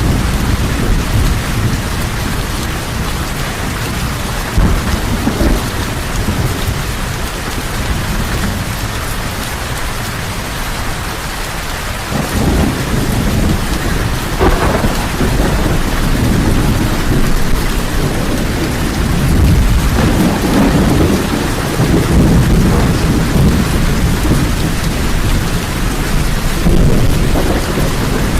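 Heavy rain falling steadily, with deep rolling thunder that swells about twelve seconds in and again later on.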